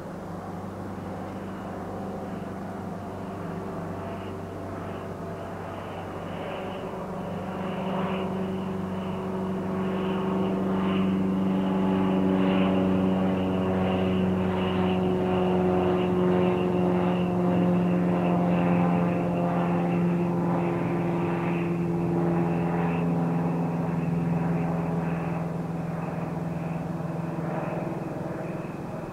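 Rhaetian Railway Capricorn electric multiple units passing: a steady drone made of several held tones, with faint regular clicks. It swells about a third of the way in, stays loud through the middle and fades toward the end.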